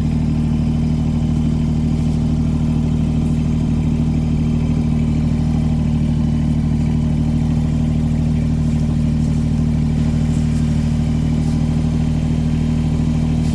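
Tractor engine idling, a steady low hum that holds one pitch throughout.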